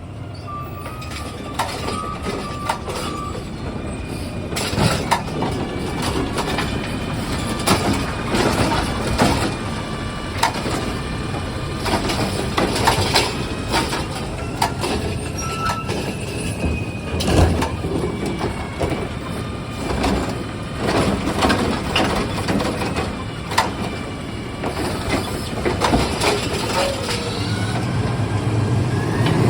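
Garbage-style recycling truck at work: its engine and machinery run steadily under many sharp knocks and clatters, with a few faint squeals, growing louder over the first few seconds.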